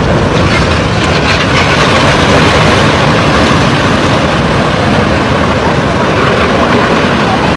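Floodwater rushing in a flash flood: a loud, steady, rumbling rush of noise with no break in it.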